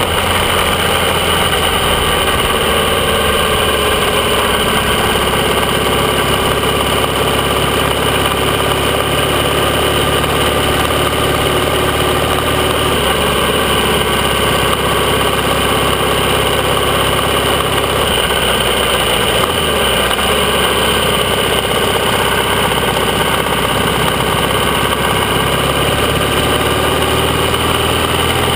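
AJS 650 CSR parallel-twin engine running under way, heard from the rider's seat. The engine note rises and falls gently as the throttle is worked, with a few shifts in the note partway through.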